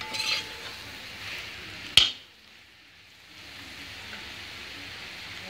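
Spiced potato pieces sizzling in a pan as a metal spatula stirs and scrapes them, with little oil left at the end of roasting. There is a scrape at the start and a sharp click about two seconds in, after which the sizzle drops away for about a second before it comes back.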